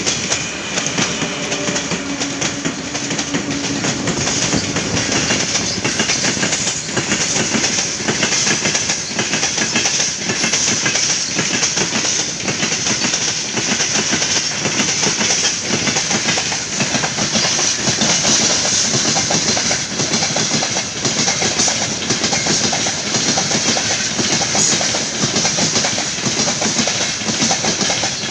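Freight train hauled by a 3ES5K Ermak electric locomotive rolling past close by. The wagon wheels clatter over the rail joints in a continuous rhythmic clickety-clack over a steady rush. A steady low hum runs through the first few seconds and then fades.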